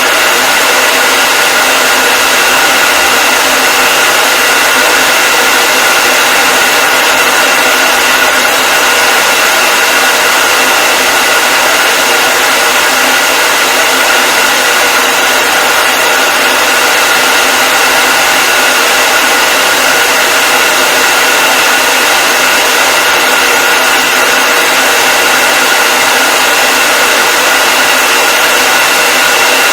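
Hair dryer running steadily: a loud, even rush of air with a high motor whine that holds several steady tones, unchanging throughout.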